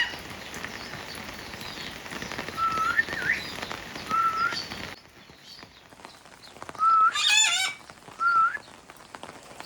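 Parrots calling: short rising whistles every second or two, and a louder, harsher squawk about seven seconds in.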